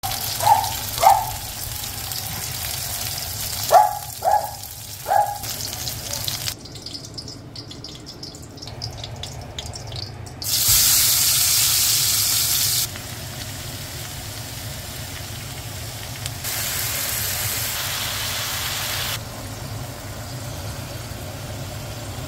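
Sliced onions frying and sizzling in hot oil in a wok, the sizzle loudest in two stretches of a few seconds, about halfway and again later. A few short clinks come near the start, and a steady low hum runs underneath.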